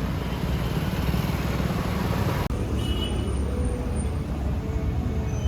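Steady street traffic noise, with a sudden change in the background about two and a half seconds in.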